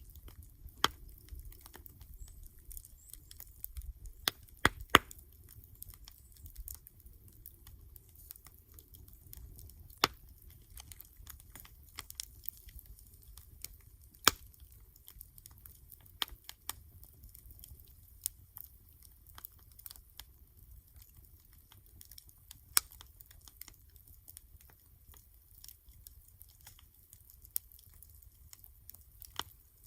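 Wood campfire crackling, with irregular sharp pops, a handful of them much louder than the rest.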